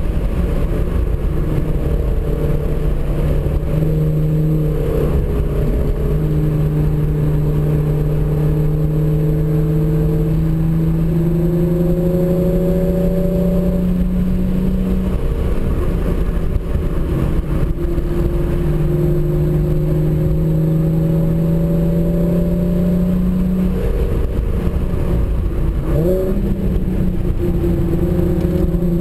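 Hyundai Genesis Coupe's 3.8-litre V6 at speed on track, heard from inside the cabin, pulling hard with its pitch climbing slowly over long stretches. The pitch drops back about 4, 15 and 24 seconds in as the driver lifts or shifts, over steady road and wind noise.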